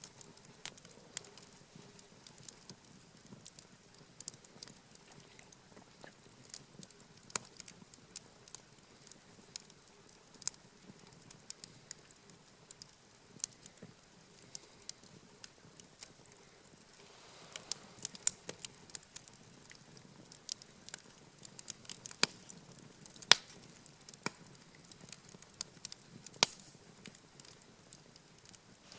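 Wood campfire crackling, with irregular sharp pops that come louder and thicker in the second half, and a brief soft rush of flame a little past the middle.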